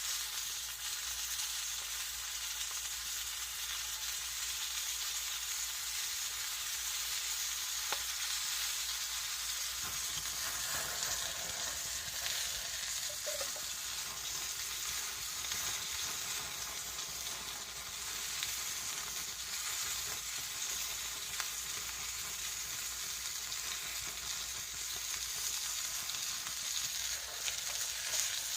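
Bacon-wrapped Camembert frying in a pan over a campfire, a steady sizzle throughout.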